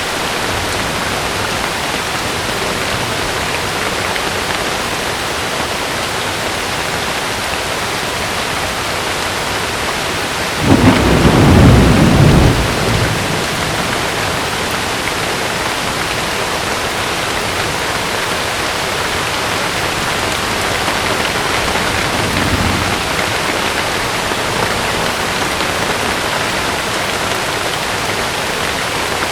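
Heavy rain falling steadily on a tent. About eleven seconds in, a loud thunderclap rumbles for about two seconds, and a fainter rumble of thunder follows about ten seconds later.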